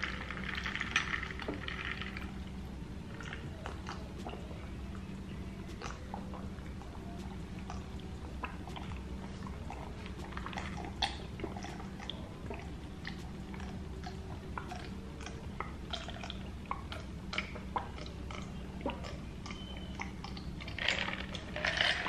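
A person chewing and eating soft food close to the microphone, with small wet mouth clicks scattered through, and a drink from a glass partway through.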